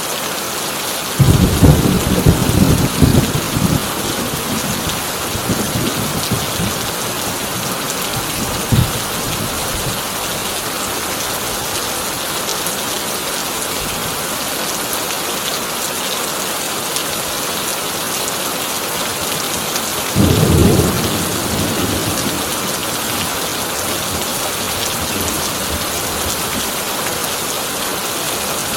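Heavy rain drumming steadily on a corrugated tin roof, with thunder breaking in twice: a long crackling peal about a second in, a sharp crack a few seconds later, and another rumbling peal about twenty seconds in.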